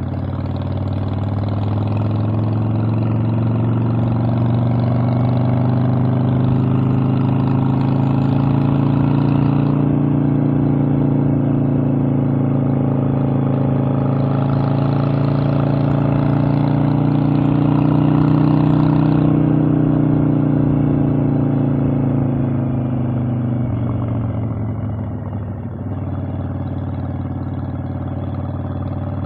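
Harley-Davidson Evolution V-twin motorcycle engine under way. It pulls up through the revs over the first several seconds and eases a little. Partway through it rises again, louder. Then it falls off and settles to a lower, steady speed near the end.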